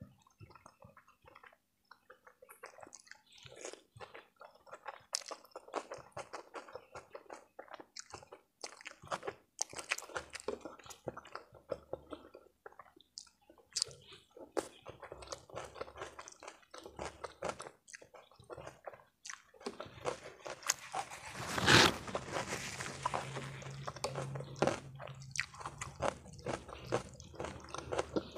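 Close-miked chewing of stir-fried instant noodles with egg and greens, with many short mouth clicks, and one louder, drawn-out sound about three-quarters of the way through.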